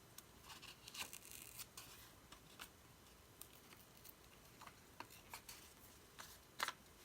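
Faint, scattered clicks and light rustles of paper and card being handled, with one sharper click near the end.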